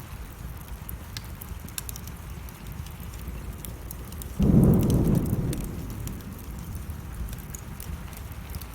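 Wood fire crackling in a fireplace with rain falling, and a sudden low clap of thunder about four seconds in that fades away over a second or two.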